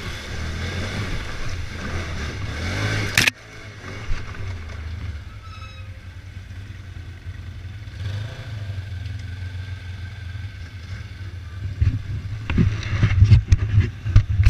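Polaris RZR 900 side-by-side's engine running under load. It is loud for about three seconds, drops off abruptly, and then runs more quietly and steadily. Near the end comes a rapid series of heavy low thumps and buffeting.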